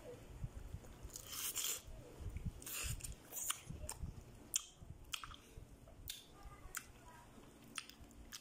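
A person chewing and biting juicy fresh pineapple up close, with irregular wet smacks and crunches of the fibrous ripe fruit.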